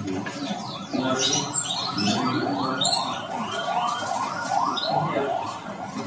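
Caged birds calling: a run of short, arched whistled calls, about three a second, for a few seconds in the middle, with higher chirps and squeaks over them.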